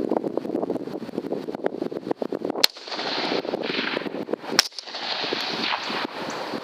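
Two rifle shots about two seconds apart, sharp and sudden, over steady wind noise buffeting the microphone.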